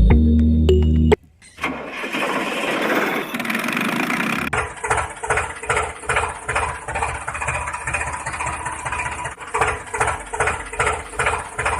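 An engine starting, with a rushing cranking noise for about three seconds, then settling into a steady, rhythmic chugging idle like a tractor engine.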